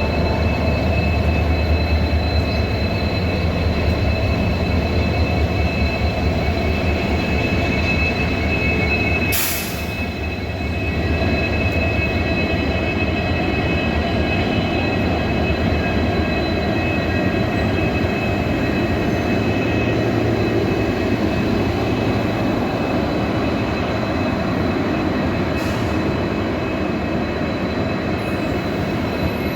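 Diesel-hauled train running on a steep ghat line, a steady heavy rumble with a high, continuous wheel squeal over it. A single sharp click comes about nine seconds in.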